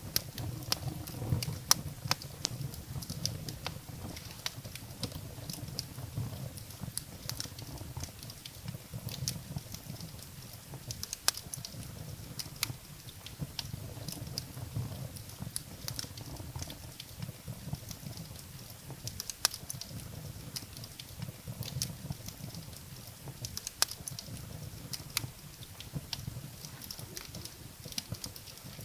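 Wood fire burning in a fireplace: firewood crackling with irregular sharp snaps and pops, some louder than others, over a low rumble of flame.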